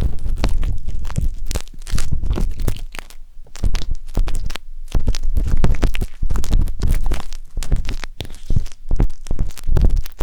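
Wooden skewer scratching and rubbing inside the silicone ear of a 3Dio binaural microphone: close, dense, irregular crackling scrapes with low rumbling thumps, easing off briefly about three to five seconds in.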